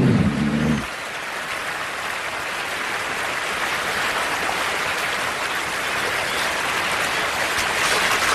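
Steady rush of flowing river water. A low music passage fades out about a second in.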